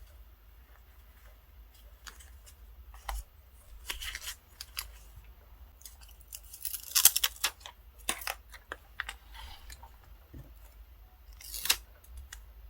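Scissors snipping paper and paper being handled in short, crisp bursts, loudest in a cluster about seven seconds in and again near the end.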